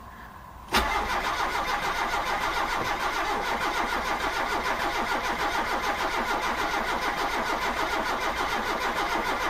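A car engine being cranked on its starter motor with a steady, even beat, turning over without firing or catching. It starts sharply about a second in and stops abruptly near the end. The car has a no-start fault, and this cranking is drawing fresh fuel through to the carburettor.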